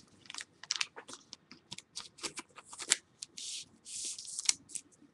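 Trading-card pack and cards being handled: a string of small clicks and rustles, with two longer papery rips or slides about three and four seconds in.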